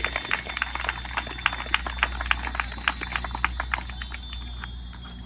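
Crowd applauding with scattered hand claps, thinning out and fading about four seconds in.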